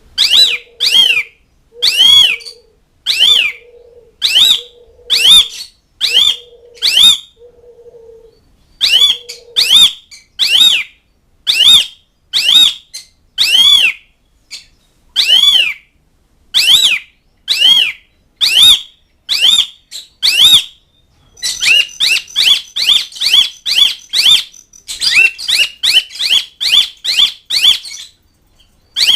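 Pied starling (jalak suren) giving loud, repeated calls, each a rising-then-falling note, about one a second, quickening into a faster run of calls about two-thirds of the way through. A low steady hoot sounds between the calls for the first third.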